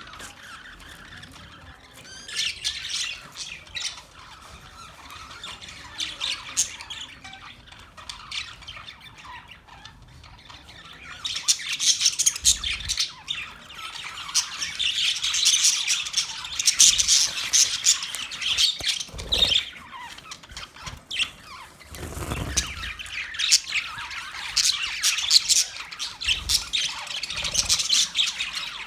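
Budgerigars chirping and squawking, many quick calls overlapping, growing busier and louder about a third of the way in. A few dull low thumps in between.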